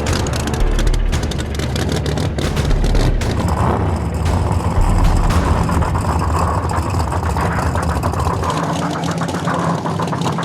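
Drag-racing car's big engine idling loudly with a choppy, uneven rumble and rapid irregular crackles.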